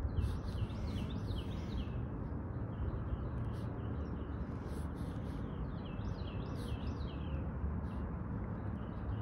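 A songbird singing two phrases of quick, repeated falling chirps, each about a second and a half long, the second about six seconds in. Underneath runs a steady low outdoor rumble.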